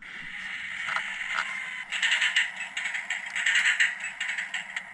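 Model F40PH locomotive's DCC sound decoder playing diesel sounds through its small speaker, thin and rattly, swelling louder twice. Something is probably touching somewhere and making it rattle.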